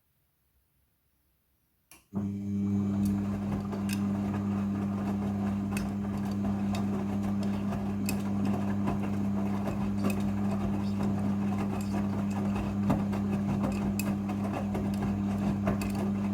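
Midea front-loading washing machine in its rinse cycle, starting up about two seconds in: a steady low electric hum with a noisy rush and scattered clicks over it.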